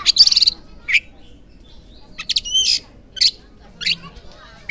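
Oriental magpie-robin (kacer) singing: short, loud phrases of sharp whistled notes and quick trills, separated by brief pauses.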